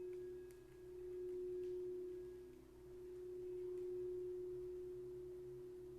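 Quartz crystal singing bowl ringing with one steady pure tone that slowly swells and fades in loudness, dipping twice in the first three seconds.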